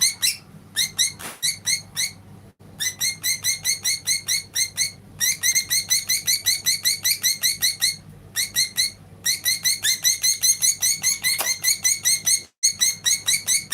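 Female budgerigar calling non-stop: a fast, even string of sharp chirps, about five or six a second, broken only by a few brief pauses. The owner puts this constant calling down to her having become a mother.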